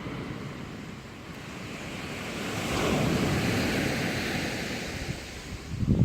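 Sea waves washing up on the shore, one wave swelling up about two and a half seconds in and ebbing away. Wind rumbles on the microphone near the end.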